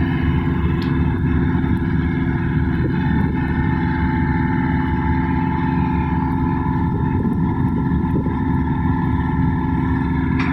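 A large diesel engine of heavy equipment running steadily at a constant speed, with a dense low rumble and an even hum.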